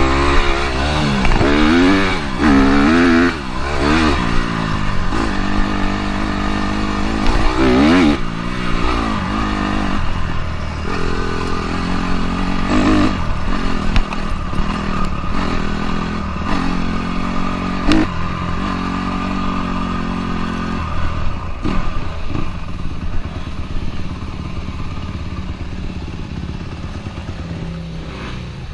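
Dirt bike engine revving hard with rapid rises and falls in pitch, then running at steadier throttle with brief drops between stretches, and easing off and getting quieter in the last few seconds.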